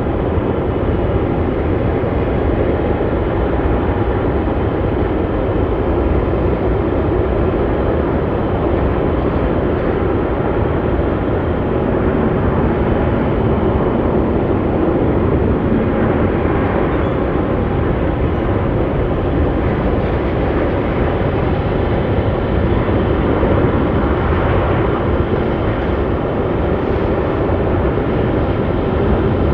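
Jet airliner engines running loud and steady, a continuous rumble with no break.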